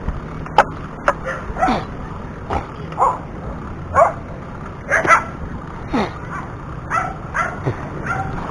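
A puppy yelping repeatedly: short, high cries about once a second, each falling in pitch.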